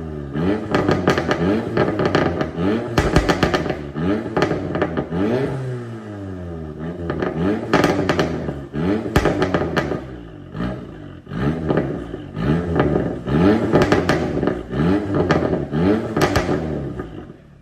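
VW Golf TCR's turbocharged 2.0-litre four-cylinder, with downpipe, stage 1 tune and aftermarket intake, revved repeatedly: the pitch climbs and falls back every second or two, with sharp cracks between the revs. It drops quieter near the end.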